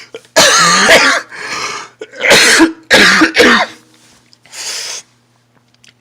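A person coughing hard about five times in a row, a fit of coughing with some throat clearing, ending about five seconds in.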